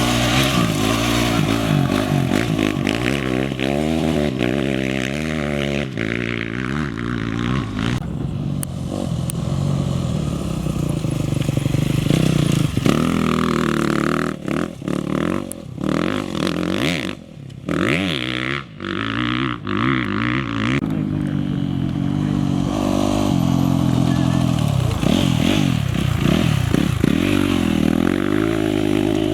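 Off-road race motorcycle and quad engines revving hard, their pitch rising and falling again and again, with several brief drops in level midway.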